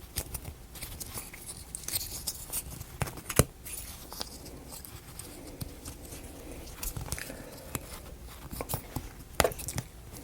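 Thin plywood model-kit pieces clicking and tapping as they are handled and fitted together, with scattered small clicks and a sharper knock about three seconds in and another near the end.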